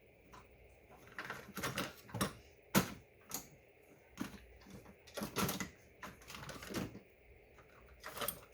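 Metal hand tools clinking and clattering in irregular knocks as someone rummages through them, hunting for a pair of needle-nose pliers.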